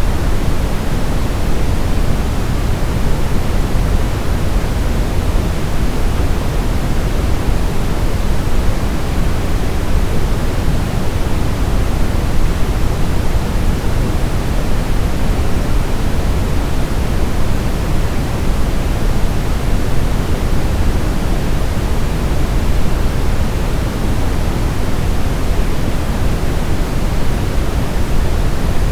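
Continuous sleep-aid noise, a steady even hiss that is heavier and deeper than pure white noise, with no change or break.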